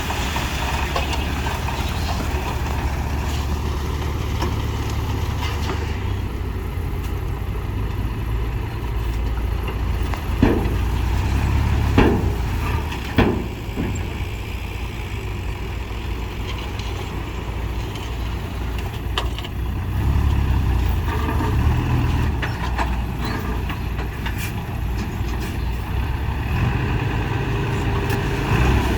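Diesel engine of heavy earthmoving machinery running steadily, with a few sharp metallic clanks near the middle.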